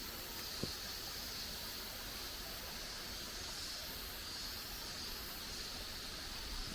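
Steady outdoor forest ambience: an even hiss with a higher, shimmering band, and one short soft knock about half a second in.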